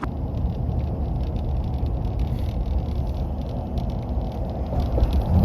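A steady low rumble, with most of its energy in the bass and no clear pitch or rhythm.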